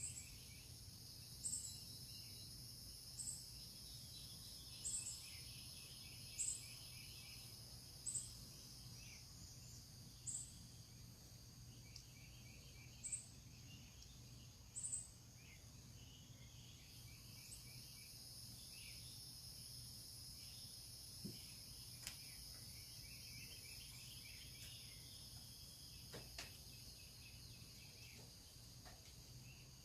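Faint outdoor ambience of insects trilling steadily, with birds twittering. A short, high chirp repeats about every one and a half to two seconds through the first half, then stops.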